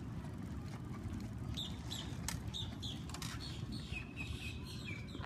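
Small birds chirping in quick runs of short high notes, starting about a second and a half in, over a steady low outdoor rumble.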